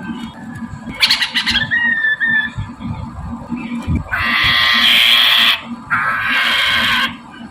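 Poksay mandarin laughingthrush calling: a few short whistled notes, then two loud, harsh chattering bursts of about a second and a half each.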